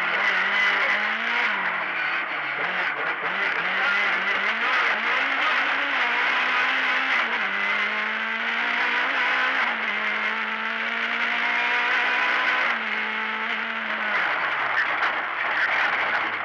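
Lada rally car's engine heard from inside the stripped cabin, revving hard along the stage with its pitch rising and dropping through gear changes and corners. Near the end the revs fall away as the driver lifts off, under a constant rattle of cabin and road noise.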